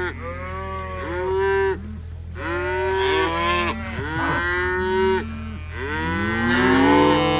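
A herd of cows and calves mooing and bawling, many long calls overlapping without a break, as the cow/calf pairs call to each other while the calves catch up with the herd. A steady low hum runs underneath.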